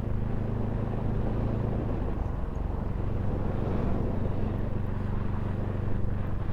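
Bajaj Pulsar NS200's single-cylinder engine running at a steady, unchanging pace while riding, with wind and road noise over it; the engine is freshly rebuilt and being ridden gently.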